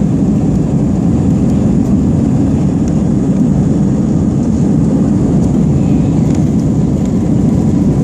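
Airbus A320 airliner in flight shortly after takeoff: a loud, steady, even rush of engine and airflow noise, deepest in the low range, with no change in level.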